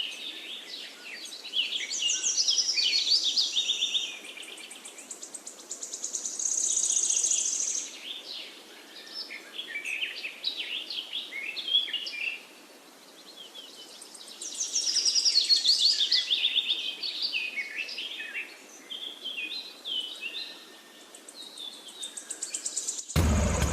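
Songbird song: busy bursts of high chirps and trills that come and go every few seconds. Right at the end a motor hum cuts in abruptly.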